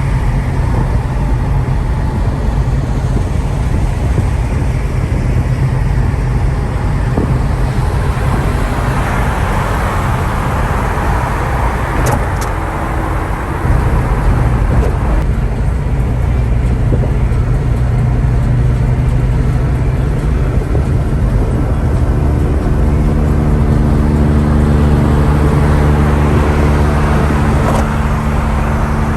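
Car engine running steadily, with a brief dip and a louder return about fourteen seconds in, then a steadier, even hum from about twenty-two seconds on.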